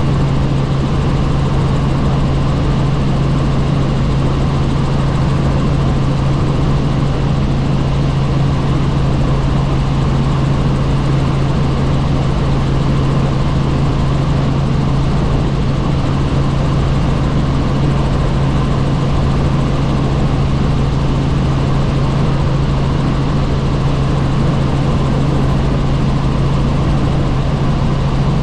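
Helicopter in steady flight heard from inside the cabin: a constant engine and rotor drone with a strong low hum and an even rush of noise, unchanging throughout.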